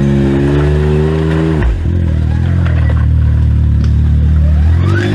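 Side-by-side UTV engine running and revving, its pitch dropping sharply about two seconds in and climbing again near the end.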